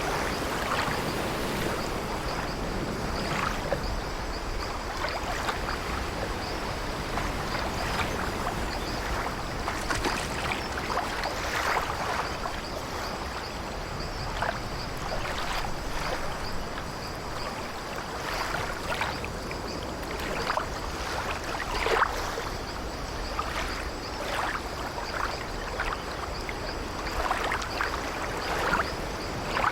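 Sea water washing and lapping against an old wooden ship, a steady wash broken by frequent short splashes, the strongest about two-thirds of the way through.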